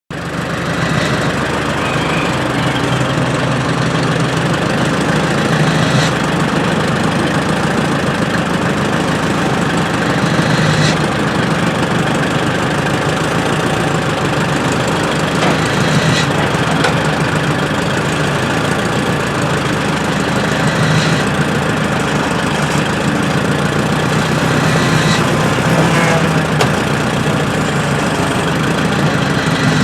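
An engine running steadily, with a faint tick about every five seconds.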